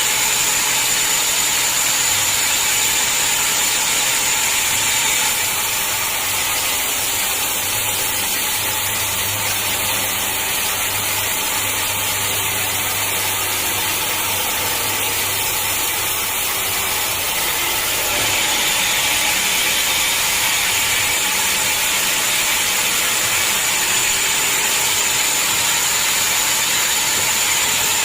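Sawmill saw running steadily through a hard acacia log, a continuous mechanical noise with a high hiss and a steady high whine. The sound dips and changes slightly about a fifth of the way in, then comes back fuller about two thirds in.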